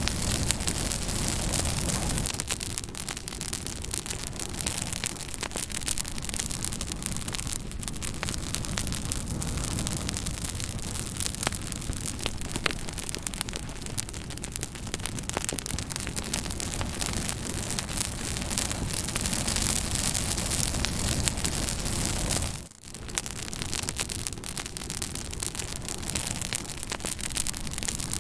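Fire crackling: a steady hiss with many small sharp pops scattered through it. The sound drops out for a moment about three quarters of the way through.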